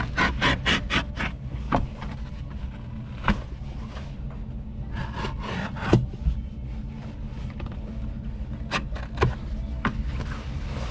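Doormat carpet being cut to fit and handled: a quick run of rasping clicks at the start, then scattered knocks and rubs, over a steady low hum.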